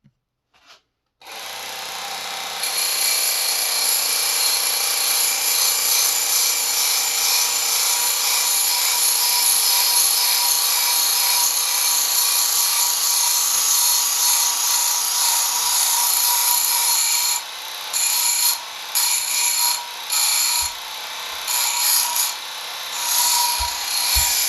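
Work Sharp powered belt sharpener with its tool grinding attachment starting about a second in and running with a steady whine, its coarse belt, about 60 grit, grinding a new bevel on a steel lopper blade. Near the end the grinding cuts out and comes back several times.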